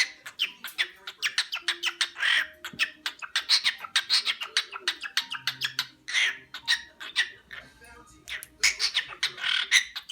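Cockatiel beatboxing: a rapid run of sharp clicks and pops, several a second, mixed with short chirps and squawks, pausing for about a second near eight seconds in before starting again.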